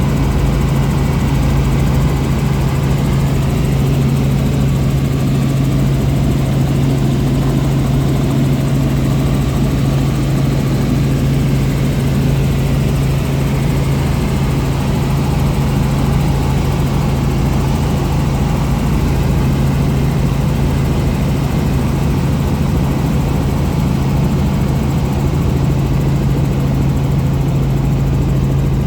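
Helicopter engine and rotor running steadily, a constant low hum under a wash of noise.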